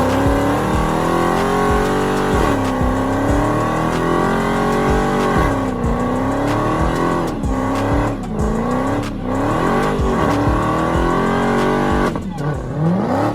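Car engine being revved over and over. Its pitch climbs and drops back several times in quick succession.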